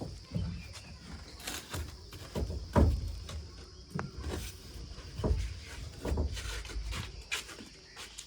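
Irregular thumps and knocks, about a dozen spread unevenly, over a steady high-pitched hiss.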